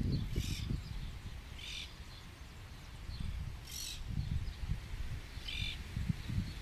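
Four short, high bird calls, one to two seconds apart, over a faint low rumble that rises and falls.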